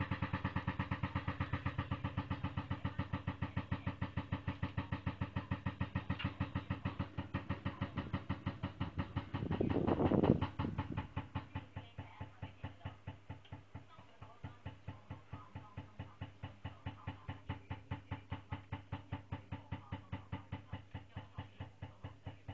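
Range hood exhaust vent banging and rattling in strong wind that blows back in through its outside vent, set too low: an even knocking of about four beats a second. A louder rush swells and drops away about ten seconds in, after which the knocking goes on more quietly.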